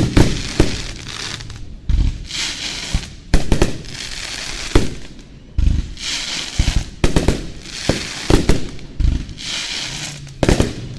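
Fireworks display: a string of loud booms from shells launching and bursting, coming irregularly and at times several within a second. Stretches of crackle fill the gaps between the booms.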